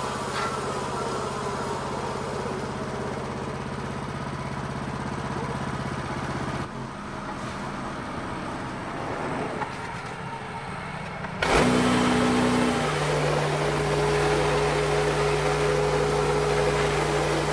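Wood-Mizer LX55 sawmill's engine running steadily. About two-thirds of the way through it suddenly gets louder and settles into a steady, slightly higher hum.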